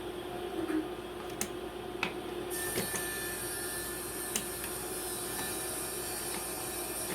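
Scattered light clicks and knocks from handling wood and clamps during a glue-up, over a steady hum. A high hiss joins about two and a half seconds in.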